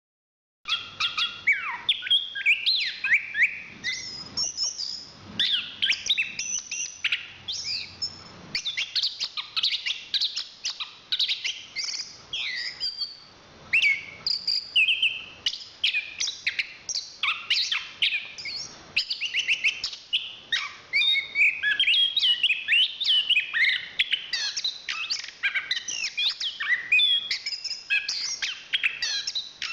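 Chestnut-capped thrush (anis kembang) singing continuously: a fast, varied stream of short chirps, trills and whistled notes sweeping up and down, with a brief break near the middle.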